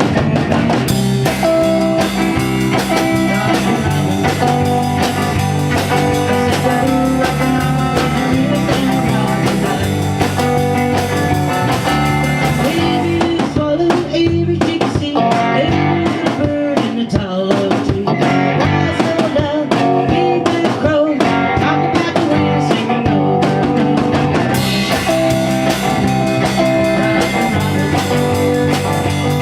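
A small band playing a blues-rock number, with guitar and a drum kit.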